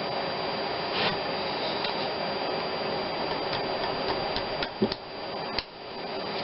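Scattered light clicks and ticks of small parts being handled on an engine, one sharper click near the end, over a steady background hiss.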